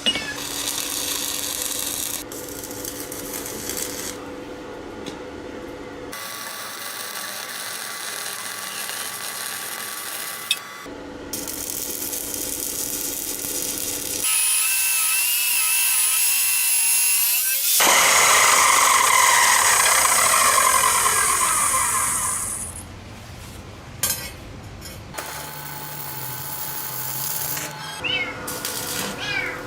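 Power tools working metal in a run of short clips, each a steady whine or grinding hiss that cuts off abruptly as the next begins. The loudest is a bright, harsh grinding a little past the middle.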